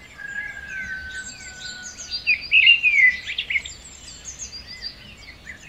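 Small birds chirping and singing over a faint outdoor hiss, with one long, slowly falling whistle in the first two seconds and the busiest, loudest chirping about two to three seconds in.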